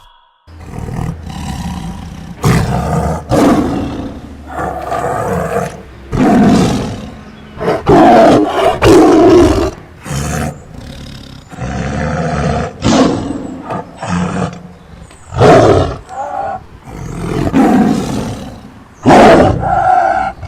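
A large wild animal roaring repeatedly: a series of about a dozen loud calls.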